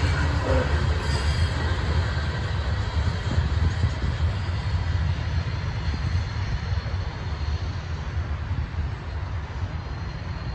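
Loaded coal hopper cars of a freight train rumbling along the rails as the end of the train passes and pulls away, the sound fading steadily.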